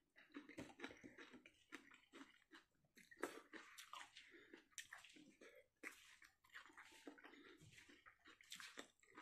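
Faint wet chewing and lip-smacking of a person eating curry and rice by hand, a run of small irregular clicks and squelches.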